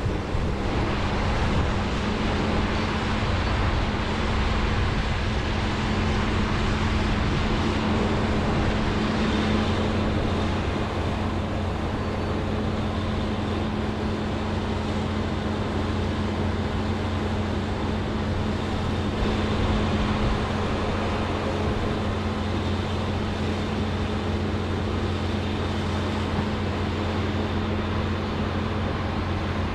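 John Deere 210G excavator's diesel engine running at a steady pitch under working load. It is a constant hum with a broad mechanical noise over it, a little louder in the first third, and no distinct knocks or impacts.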